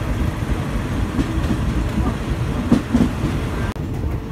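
Passenger train carriage running on the rails: a steady low rumble with wheel clatter, and a few louder clacks past the middle. The sound drops out for an instant and changes a little before the end.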